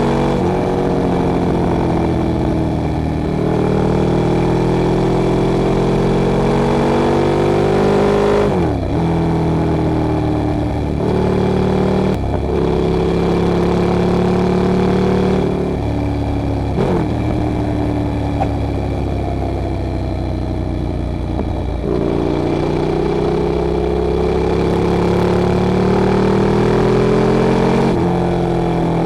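Ducati Streetfighter 848's 849 cc Testastretta L-twin engine pulling through the gears while being ridden. The engine note climbs slowly, then drops sharply at each upshift, about seven times.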